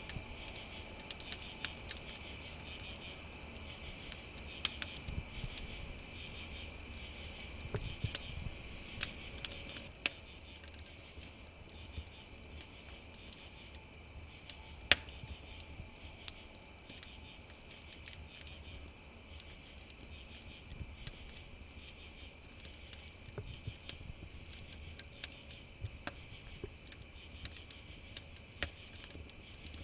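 Crackling wood campfire with a steady chorus of crickets. Irregular sharp pops and snaps from the fire are scattered throughout, the loudest about halfway through, over an unbroken high cricket trill.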